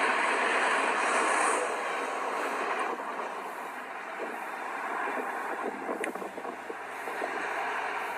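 Express train running on the track: steady noise of the wheels and coaches, loudest in the first second and a half and then easing off, with one sharp click about six seconds in.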